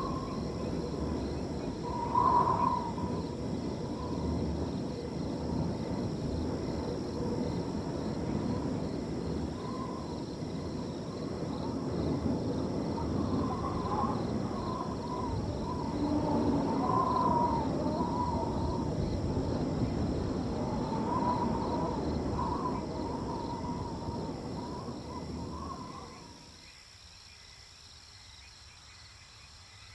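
Wind blowing across a field, with crickets trilling steadily underneath and short repeated animal calls. The wind dies down near the end, leaving the crickets.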